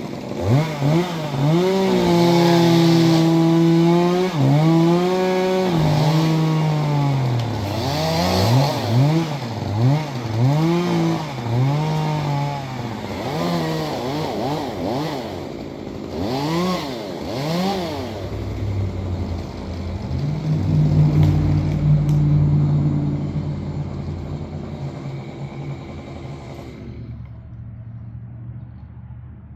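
Chainsaw engine revving up and down repeatedly as the throttle is worked, then settling to a steadier, lower running tone for the last third. The high hiss drops away near the end.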